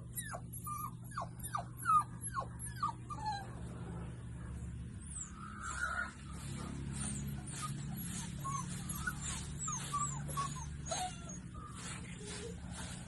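Puppies whimpering: a run of short, high squeals that fall in pitch, about three a second, for the first three seconds or so, followed by fainter, scattered high chirps.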